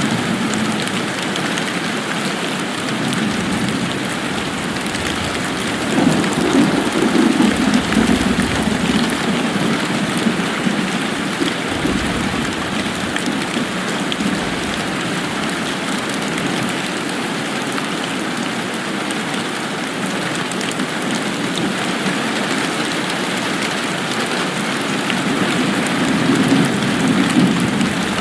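Steady rain falling, an even hiss of drops. A low rumbling swell rises about six seconds in and again near the end.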